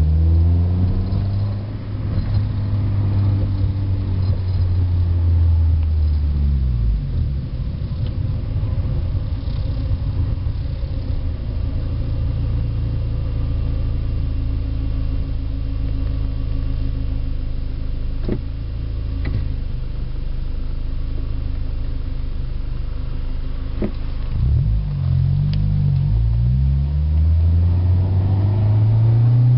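1991 Honda Accord's stock F22A1 2.2-litre four-cylinder engine and exhaust heard from inside the cabin with the windows up. The engine pulls up in pitch under acceleration, drops off about 7 seconds in, and settles into a steady low drone. It accelerates again with a rising pitch over the last few seconds.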